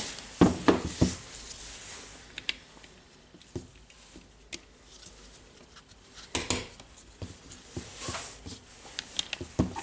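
Small tool parts being handled on a workbench: scattered light clicks and knocks at irregular intervals, with a short rustle partway through.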